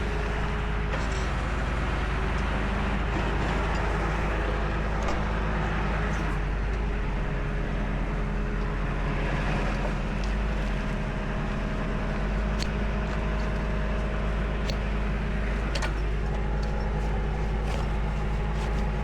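Tow truck engine running steadily while it holds pressure on the winch line, with a few sharp clicks about two-thirds of the way through.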